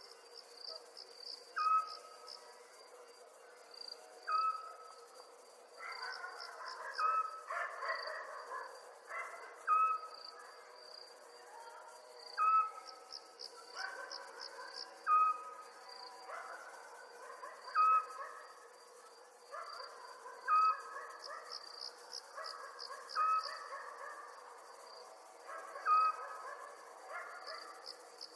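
Night chorus of crickets chirping in quick pulsed trills. A short, sharp single-note call repeats evenly about every two and a half seconds, over a softer background of other calls.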